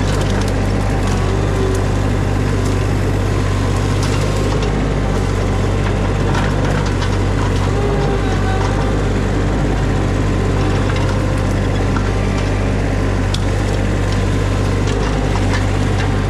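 Mini skid steer engine running at a steady speed under work, with scattered cracking and snapping of shrub branches and wood as the shrubs are torn out.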